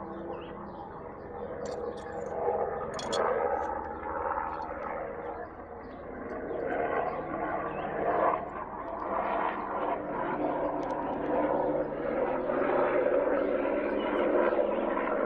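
An engine drones steadily and grows louder, over a few light clicks of small parts being handled.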